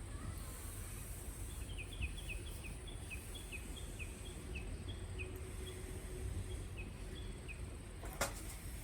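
A small songbird singing a run of short, quick chirping notes, about two or three a second, over a low outdoor rumble. A single sharp click sounds near the end.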